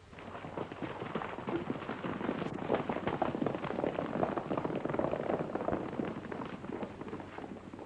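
Hoofbeats of several galloping horses: a dense, rapid clatter that starts abruptly, swells, and eases off near the end.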